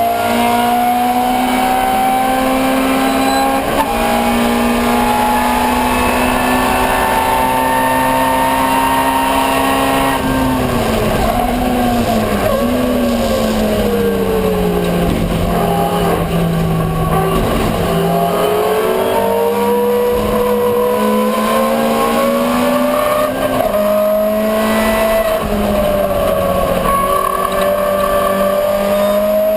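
Ford Escort 1300GT race car's 1300cc four-cylinder engine running hard: the pitch climbs slowly for about ten seconds, falls for several seconds as the car slows, then climbs again.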